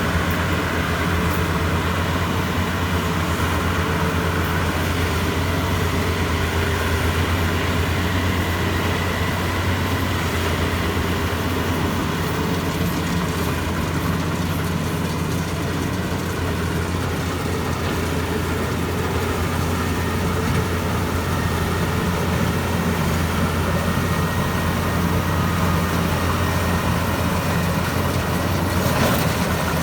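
Maxxi Bimo 102 rice combine harvester running steadily, a constant low engine drone.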